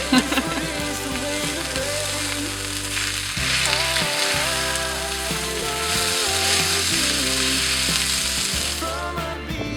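Food sizzling in a hot pan over a camp stove or fire, a dense steady hiss that cuts off suddenly near the end, with a background song playing underneath.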